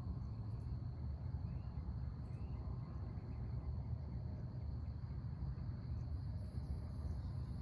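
Crickets or other insects trilling in a steady, unbroken high chorus, with a second, higher insect trill joining near the end and a few faint bird chirps, over a constant low rumble.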